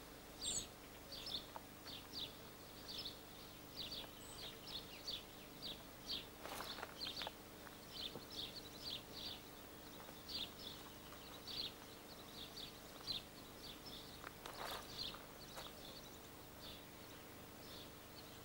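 Small bird chirping over and over, short high chirps about two a second, faint, over a steady low hum.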